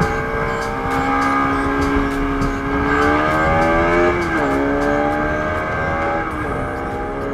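Motorcycle engine accelerating through the gears, its pitch climbing steadily and dropping at two upshifts, about four and six and a half seconds in, with wind and road noise.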